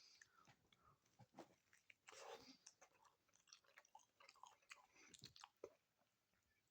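Faint chewing of a soft sandwich, with irregular small wet smacks and clicks of the mouth.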